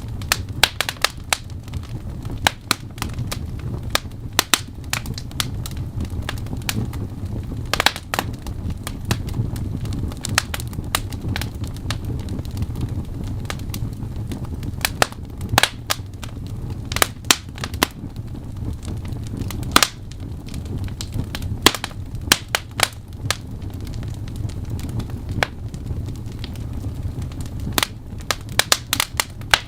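Wood fire burning in a fireplace: irregular sharp crackles and pops, several a second in places, over a steady low rush of flames.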